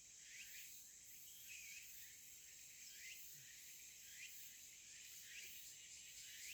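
Faint outdoor ambience of insects: a steady high-pitched drone with a short rising chirp repeating about once a second.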